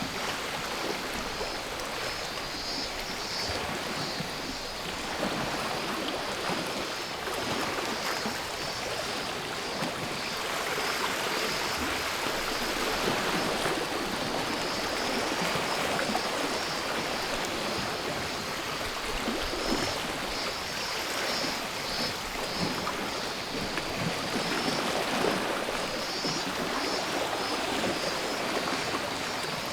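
Sea waves washing steadily against the shore, swelling and easing, with cicadas singing in a high, pulsing drone above them.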